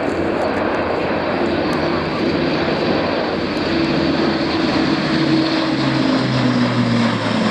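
Airbus A400M Atlas's four turboprop engines and eight-bladed propellers running loud as it flies past. The sound grows steadily louder, and the propeller tone drops in pitch from about six seconds in as it passes.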